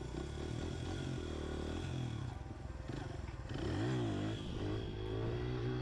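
Pit bike engine running under throttle, its pitch dipping and then climbing again about four seconds in.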